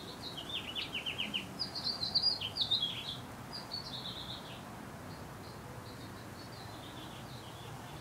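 A small songbird singing: bright chirps and a quick trill of falling notes in the first few seconds, then fainter, scattered chirps.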